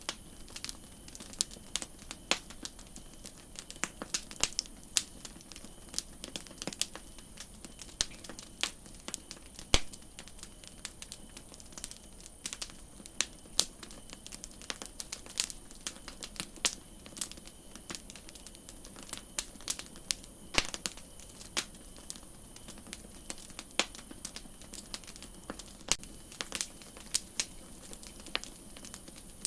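Wood campfire crackling: irregular sharp pops and snaps, some much louder than others, over a steady soft hiss.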